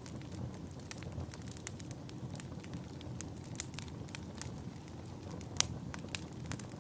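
Log fire in a fireplace crackling: a steady low rumble of flames with irregular sharp pops and snaps, one louder pop near the end.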